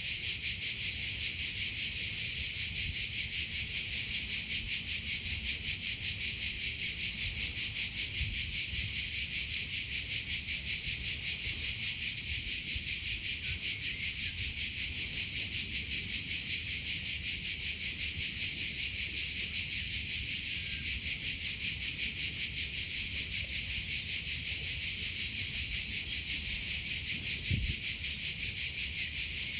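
Cricket chirping in a steady, rapid, even pulse, a high continuous trill that doesn't let up.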